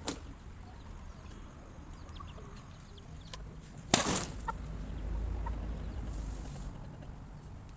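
Chickens clucking with a flurry of wing flapping, broken by a sudden sharp crack about four seconds in (a smaller one right at the start), the loudest sound here.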